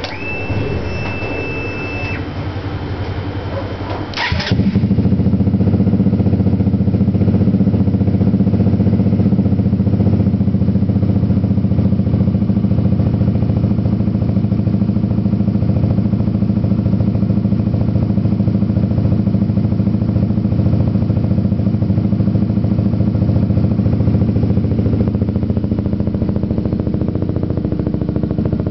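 Honda CBR150R FI single-cylinder engine starting about four seconds in, after a steady high whine of about two seconds, then idling steadily through a fabricated short exhaust pipe with a resonator/mini-muffler fitted to soften its tone.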